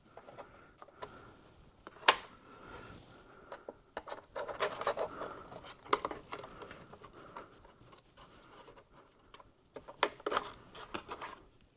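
An iMac's internal metal support bracket being worked loose and lifted out by hand: light clicks, scraping and rubbing of metal against the case, with one sharp click about two seconds in.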